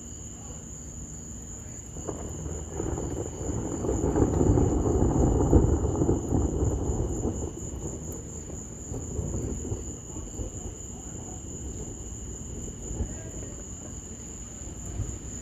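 A long, low rumble of distant thunder swells from about two seconds in, peaks near the middle and fades away. Steady high cricket trilling goes on underneath.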